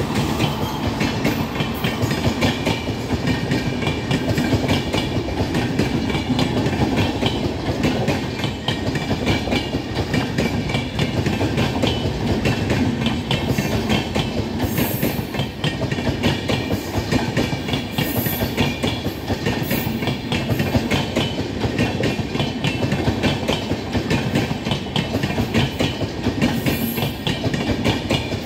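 Passenger coaches of an express train rolling past close by at speed: a continuous rumble of wheels on rails, full of rapid clicks and clatter.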